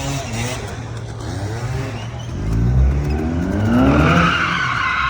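Car engine revving hard, its pitch climbing steeply from about two seconds in, with tyres squealing near the end as the car launches or spins its wheels.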